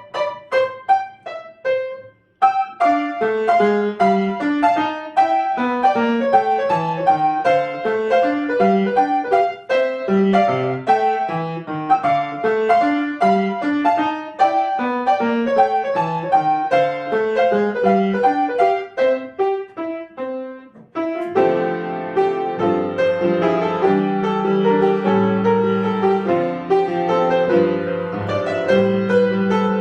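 Piano playing: a quick run of separate notes, broken by a brief pause about two seconds in, then fuller, longer-held chords with a heavier bass for the last third.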